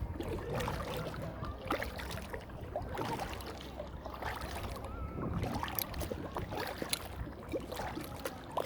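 Kayak paddle dipping and splashing in lake water, a stroke about every second or so, over a low wind rumble.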